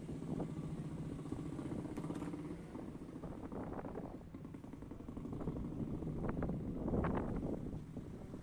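A vehicle engine idling steadily, fading after about two and a half seconds, with voices of people talking in the background.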